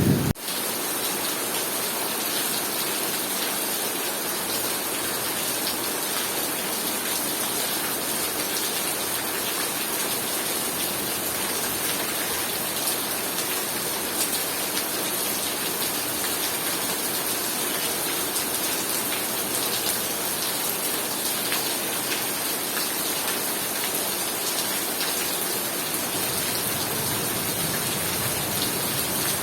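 Heavy rain pouring down steadily, a dense even hiss. The tail of a thunderclap breaks off abruptly right at the start.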